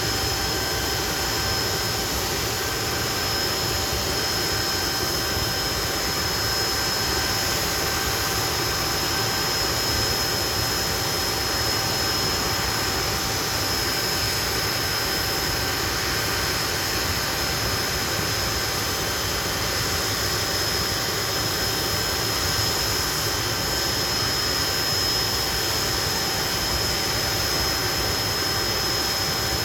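Hawker Siddeley Nimrod's Rolls-Royce Spey jet engines running steadily, a constant high whine over a broad rush.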